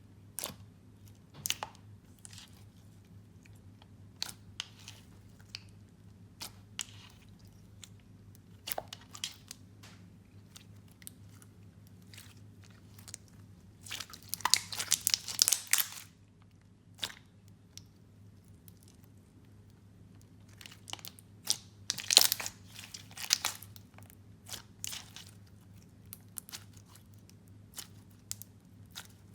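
Hands squeezing and pressing clear slime packed with fishbowl beads, giving irregular crunchy crackles and clicks. Two denser, louder bursts of crunching come about halfway through and again a few seconds later.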